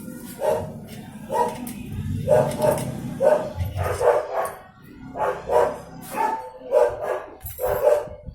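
A dog barking repeatedly, about ten barks at roughly one a second.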